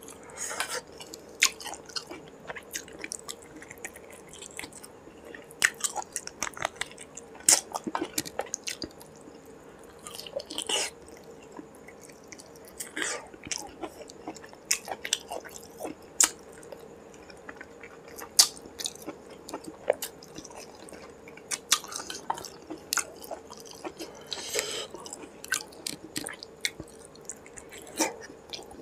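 A man chewing mouthfuls of rice and curry eaten by hand, close to the microphone: irregular wet smacks and mouth clicks, some sharp and loud, over a faint steady hum.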